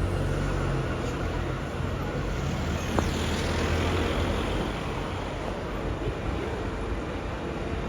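Bus engine running close by, its low steady note fading after about four seconds amid road traffic noise, with a single sharp click about three seconds in.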